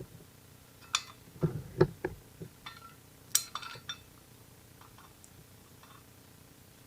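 Metal hand tools clinking and tapping against steel engine parts, several sharp clinks in the first four seconds, then only a few faint ticks.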